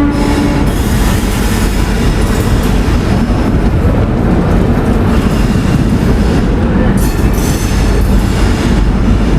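Passenger train rolling along the platform, its coach wheels giving a loud, steady rumble and clatter over the track. A train horn from just before stops about half a second in.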